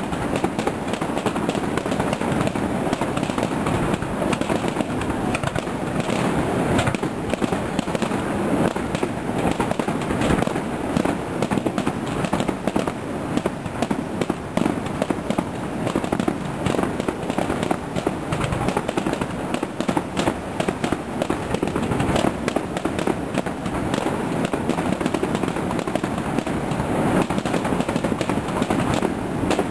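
Aerial firework shells bursting in a dense, unbroken barrage of bangs and crackling.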